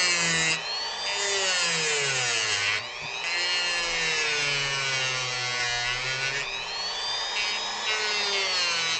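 Dremel rotary tool with a sanding drum grinding into a wooden carving. Its high whine repeatedly sags and recovers in pitch as the drum is pressed into the wood and eased off.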